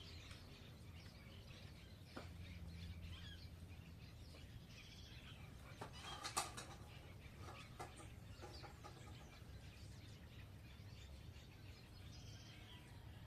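Small birds chirping faintly and repeatedly as they feed, with a brief louder cluster of clatter or wing flutter about six seconds in, over a steady low hum.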